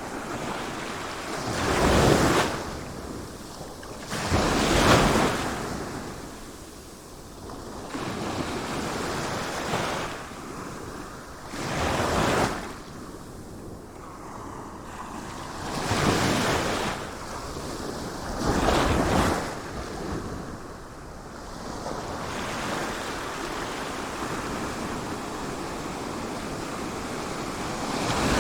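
Sea waves breaking in a series of surges, five loud ones a few seconds apart, each washing out before the next, then settling into a steadier wash near the end.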